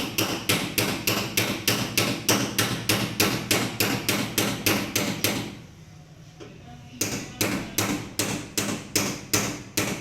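Rapid, evenly spaced hammer strikes on a tin oil can, about four a second, cutting an opening in the metal. They stop for about a second and a half a little past the middle, then a second run of strikes follows.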